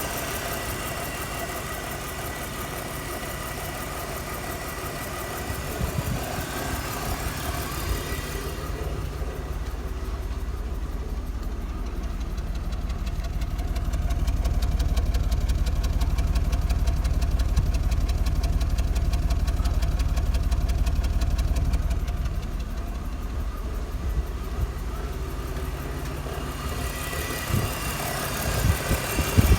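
BMW E46 engine idling roughly and unevenly with a misfire on cylinder 3 (fault code P0303). Through the middle stretch, from about 8 to 26 seconds in, the sound turns deeper and louder.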